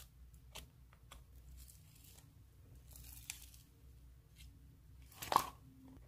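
Slime being handled: faint scattered clicks and crinkly crackles, with one louder crackling burst about five seconds in.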